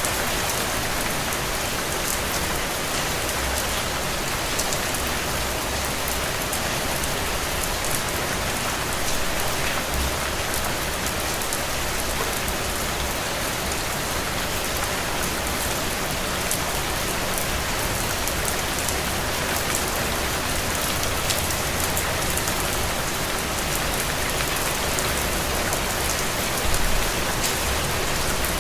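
Heavy, steady rain falling on soaked ground and puddles, an even hiss dotted with the ticks of single drops. A brief low thump sounds near the end.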